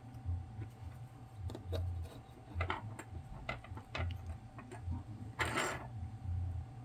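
Spudger scraping and prying at the rubbery coating on a small circuit-board component: irregular light clicks and scratches, with dull handling knocks and one longer rasp about five and a half seconds in.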